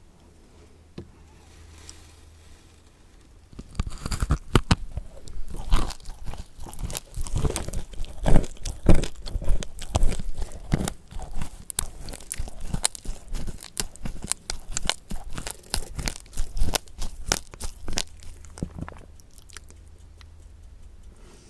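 Close-miked chewing and crunching of food: a dense run of crisp bites and crackly chews that starts a few seconds in and dies down near the end.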